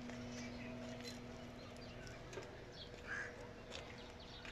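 Birds chirping and calling in short scattered notes, over a faint steady hum that drops away about two seconds in.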